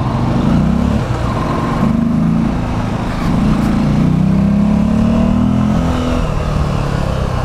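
Motorcycle engine under way, accelerating, its pitch climbing and dropping back twice at gear changes.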